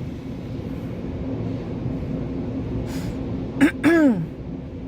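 Steady low rumble of an idling car and car wash machinery, heard from inside the car. About three and a half seconds in, a short vocal sound falls in pitch.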